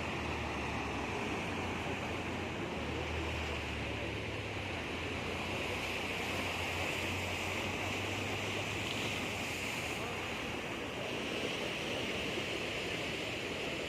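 Sea surf washing steadily onto the shore, with a low rumble of wind in the first half.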